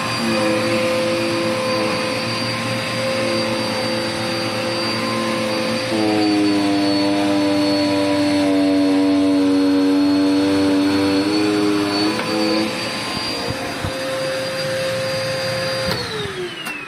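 Dirt Devil Endura Lite upright bagless vacuum cleaner running with a steady motor whine. Its note shifts lower for several seconds midway, as if the motor is under load, then comes back up. Near the end it is switched off and the whine falls away as the motor winds down.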